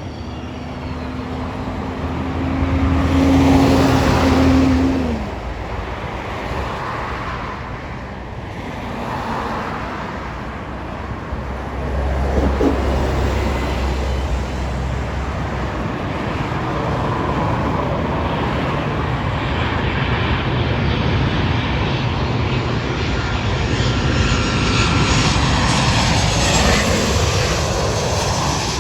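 Jet engines of a Boeing 737-700 coming in to land, its CFM56 turbofans passing close with a steady whine that peaks and then drops in pitch about five seconds in, followed by continuing loud jet rumble and rush that swells again in the second half.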